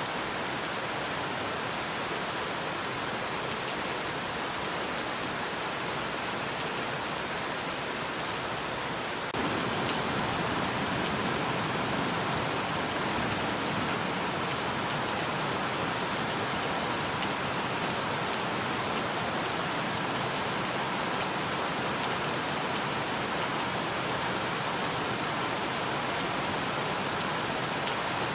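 Steady, dense rainfall with a constant patter of drops. About nine seconds in it turns a little louder and fuller in the low range, then holds steady.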